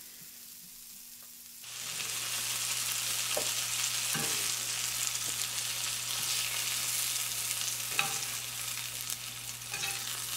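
Chicken tenders sizzling in hot olive oil in a stainless-steel skillet. The sizzle starts abruptly about two seconds in and stays loud and steady, with a few short clinks of metal tongs against the pan as the pieces are turned and lifted.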